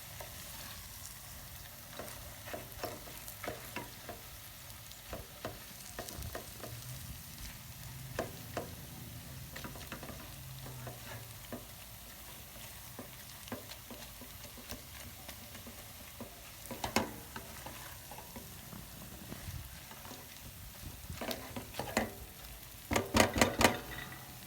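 Chicken, onion and spice mixture sizzling in oil in a pan while a utensil stirs it, with scattered scrapes and knocks against the pan and a louder run of scrapes near the end.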